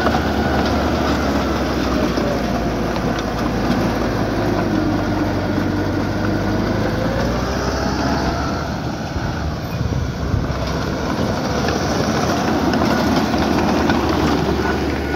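Diesel engine of heavy earthmoving equipment running steadily with a low hum.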